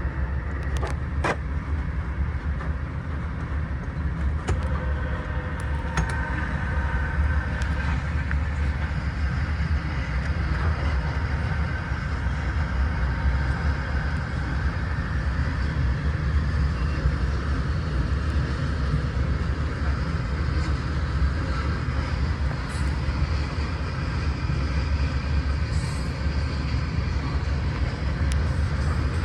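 Herzog ballast train rolling past with a steady, heavy low rumble and a few sharp clicks from its wheels.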